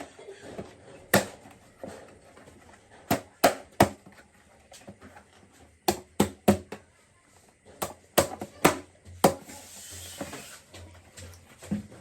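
Irregular sharp knocks and clicks of hard objects being handled, about a dozen, several coming in quick runs of two or three; a soft hiss rises about ten seconds in.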